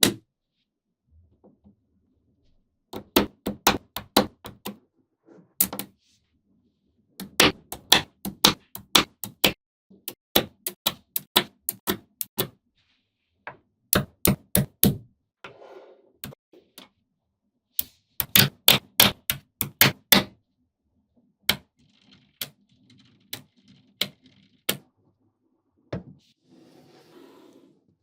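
Small magnetic balls clicking sharply against each other as they snap together, in quick runs of several clicks a second with short pauses between.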